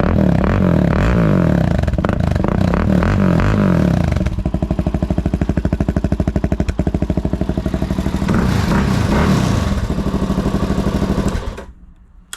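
Suzuki DR-Z400's single-cylinder four-stroke engine running loud through a Black Widow aftermarket slip-on exhaust. The throttle is blipped repeatedly, then it settles to a pulsing idle and is revved once more before the sound cuts off near the end.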